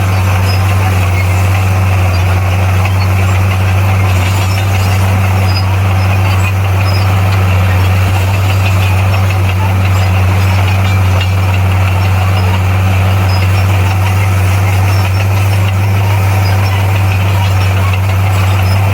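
Bulldozer's diesel engine running steadily at an unchanging speed, a deep constant drone with engine clatter above it.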